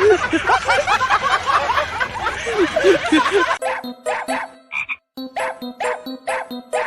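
A dense chorus of many frogs croaking at once, overlapping short rising-and-falling calls. About three and a half seconds in it cuts off abruptly and gives way to a pitched, evenly repeating sound pulsing about twice a second.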